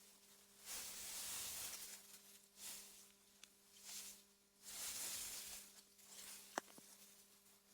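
AI-generated ambience of wind gusting through meadow grass: a faint hiss that swells and fades several times. A steady low hum runs underneath, and a single sharp click comes about six and a half seconds in.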